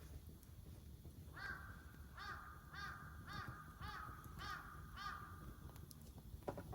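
A crow cawing a series of about seven short calls, a little under two a second, faint over a low steady background rumble.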